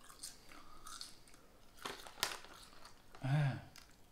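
A person chewing a crispy seaweed snack, with a few scattered crunches and two sharper crunches about halfway through. Near the end a short low vocal sound from the chewer, the loudest moment, breaks in.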